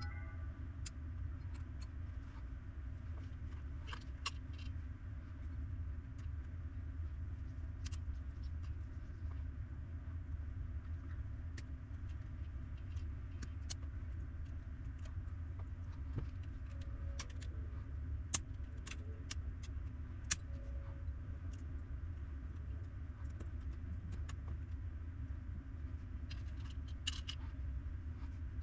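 Scattered light clicks and taps of small parts and tools being handled on a workbench, over a steady low hum.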